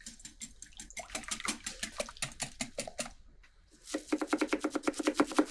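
Egg batter being whisked in a bowl: quick, even strokes, about eight a second, stopping briefly a little past halfway and then starting again louder.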